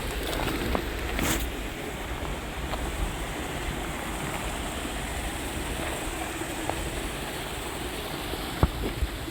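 Steady rushing of a flowing mountain stream, with wind rumbling on the microphone. A sharp click stands out near the end.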